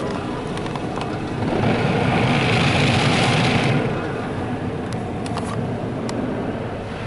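Mark VII ChoiceWash XT in-bay automatic car wash running over the truck, with a loud hiss of water spray on the body for about two seconds near the middle and a few sharp ticks later on.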